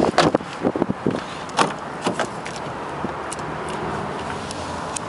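Clicks and knocks from a 2008 Toyota Corolla's interior fittings being handled, a quick run of them in the first couple of seconds and a few scattered ones after, over a steady hiss.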